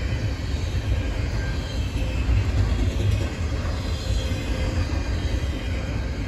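Double-stack intermodal train's well cars rolling past, a steady rumble of steel wheels on rail.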